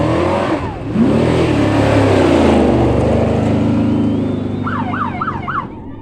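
Trophy truck race engine revving hard, its pitch rising and falling as the truck passes over the jumps, then holding a high steady note. Near the end a warbling, siren-like tone loops up and down about four times.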